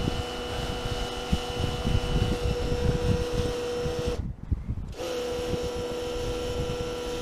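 Power scrubber's electric motor running with a steady high hum, over uneven low knocks and rumble from the scrubbing. The hum cuts out for just under a second about four seconds in, then starts again.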